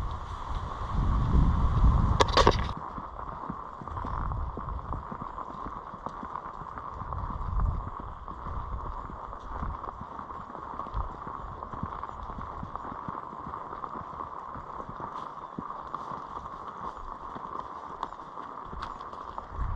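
A horse's hooves clip-clopping on a dirt trail as it is ridden. Wind buffets the microphone heavily for the first couple of seconds. A sharp click comes about two seconds in, and a faint steady tone runs underneath.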